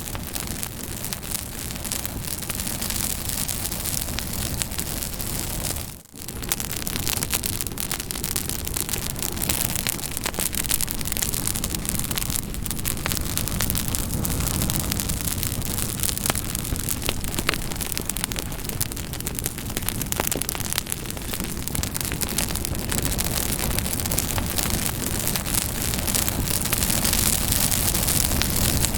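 Campfire burning, with a steady rush of flame and many sharp crackles and pops from the wood. The sound briefly drops away about six seconds in, then carries on.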